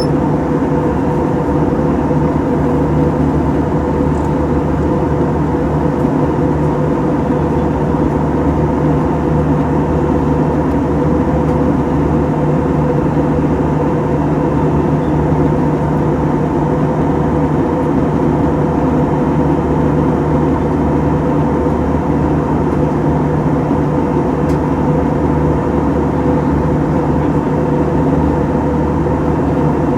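Airbus A321 cabin noise in flight: a steady jet-engine drone with even humming tones, unchanging throughout.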